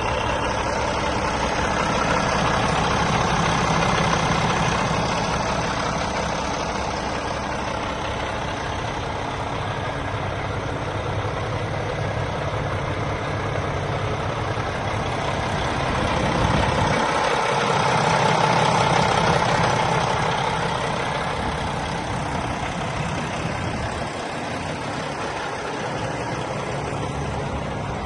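2020 International LT625 truck tractor's diesel engine idling steadily.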